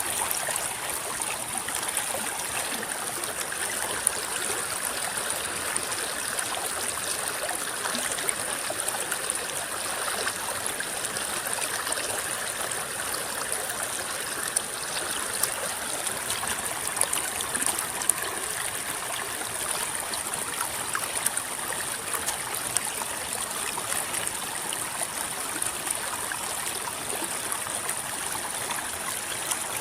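River water flowing and rippling, a steady rushing with many small splashes and gurgles scattered through it.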